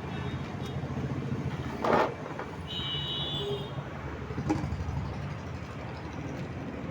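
Road traffic: a steady low engine rumble, with a sudden loud noise about two seconds in and a short high-pitched tone about a second later.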